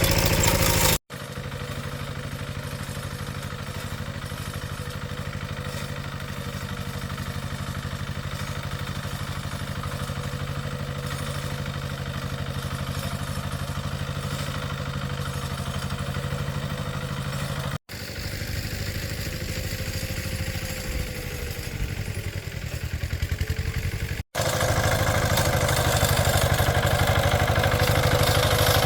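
A small engine running steadily across several cut-together shots, its pitch sagging briefly and recovering about two-thirds of the way through.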